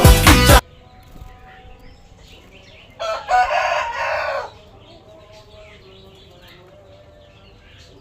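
A song playing at the start cuts off abruptly about half a second in. About three seconds in a rooster crows once, a loud rough call lasting about a second and a half, with faint small-bird chirps around it.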